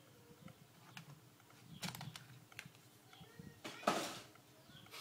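Faint clicks and taps from an Acer netbook keyboard being worked on, with a louder knock about two seconds in and a louder one still about four seconds in.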